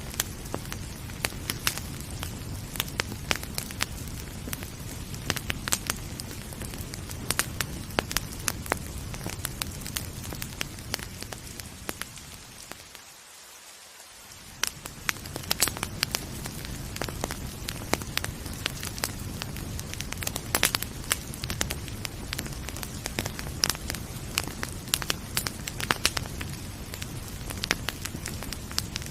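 Wood fire crackling in a fireplace, with frequent sharp pops and snaps over a steady low rumble and gentle rain hiss. About halfway through, the low rumble fades out for a couple of seconds and then returns.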